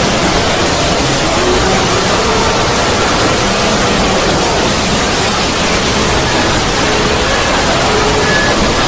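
Loud, steady rushing noise like static, spread across the whole range from deep to high, with a few faint short tones surfacing and fading in it: an edited 'void' sound effect.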